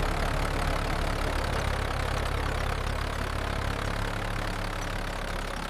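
Tractor engine sound effect running steadily, a low engine hum under a broad noisy rattle.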